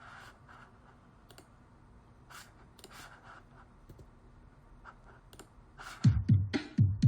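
Scattered light clicks and taps, then about six seconds in an instrumental backing track starts with loud, deep drum-machine kick beats.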